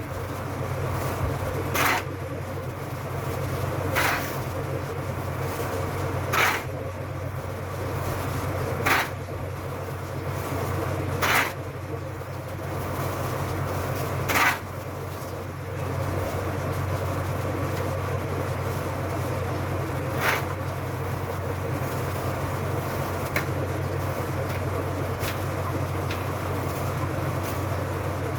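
Steady low machine hum with a short rasping stroke every two to three seconds, the strokes thinning out after about twenty seconds.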